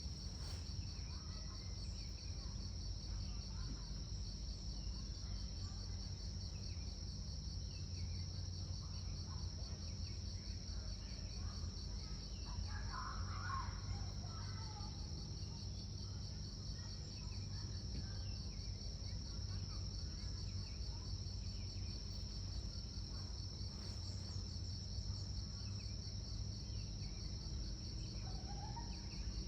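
A chorus of insects chirping steadily and high-pitched, with a fast, even pulse. A few brief fainter chirps come through about midway and near the end.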